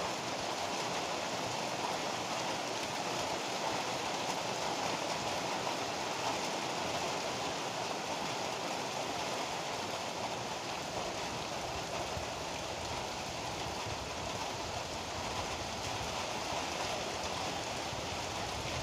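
Heavy rain pouring steadily: a dense, even hiss with no breaks or claps.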